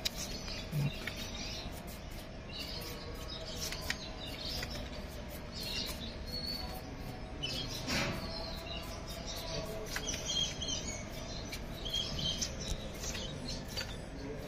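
Small birds chirping in scattered short bursts, over a faint steady low tone.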